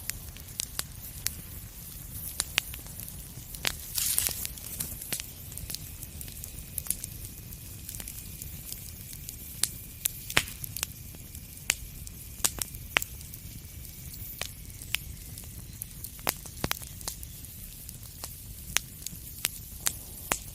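Wood fire crackling in a fireplace: frequent sharp pops and snaps over a steady low rumble, with a brief louder flurry about four seconds in. A faint high whistle runs under the crackle for several seconds in the middle.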